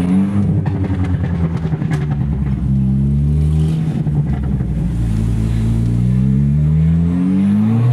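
Car engine accelerating through the gears, its note climbing steadily and dropping back at each shift, twice.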